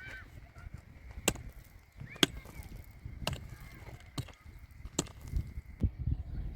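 Six sharp knocks, about a second apart, over a faint steady high-pitched tone.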